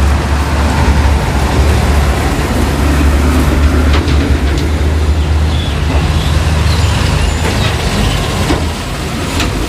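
Heavy truck engine running close by on the road, a loud steady low rumble over road and traffic noise.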